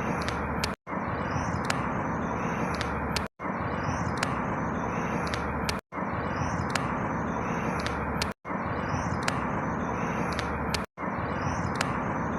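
Steady outdoor ambient noise with a few faint high chirps. It is a short loop of about two and a half seconds that repeats five times, each repeat broken by a brief dropout to silence.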